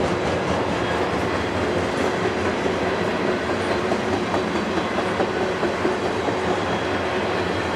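A train passing close by, with steady rumble and wheel-on-rail noise from its cars.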